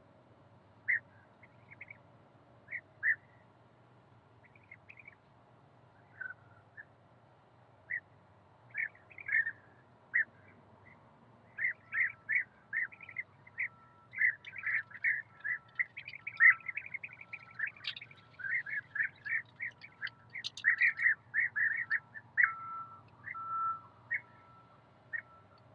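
Small birds chirping and calling: scattered single chirps at first, then a busy, overlapping run of quick chirps and short repeated notes through the second half, thinning out near the end.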